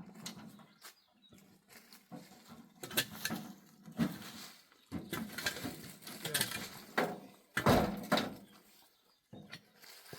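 Irregular knocks, thuds and short scraping rustles at uneven intervals, with quiet gaps between them.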